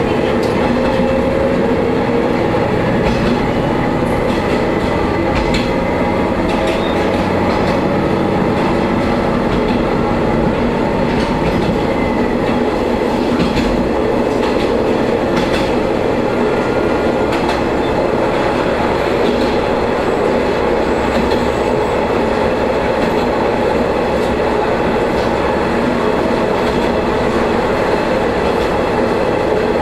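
Diesel railcar running along the line, its engine sounding steadily, with the wheels clicking now and then over rail joints.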